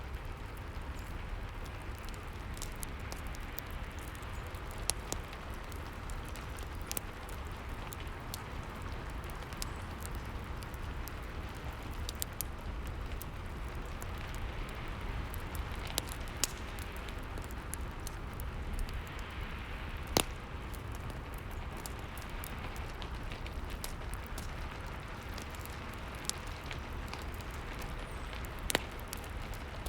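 Steady rain mixed with a crackling fireplace, with sharp pops from the fire every few seconds.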